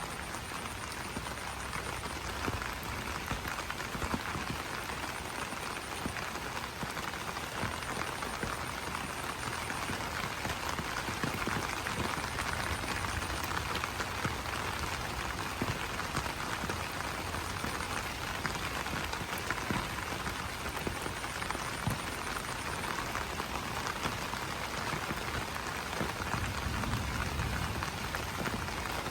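Steady rain pattering on broad banana leaves, with many individual drops ticking on the leaves. A faint, high, pulsed trill comes and goes several times over the rain.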